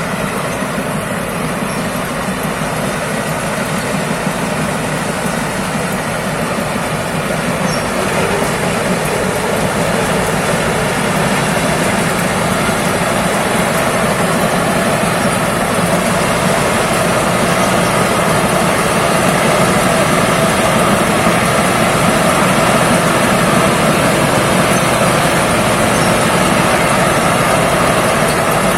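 Thai Seng rice combine harvester running steadily while harvesting, its engine and threshing machinery making a loud continuous mechanical drone that slowly grows louder.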